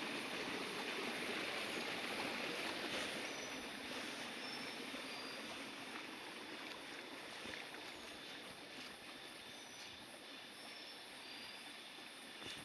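Steady outdoor rushing noise that slowly grows quieter, with a few faint, short high chirps.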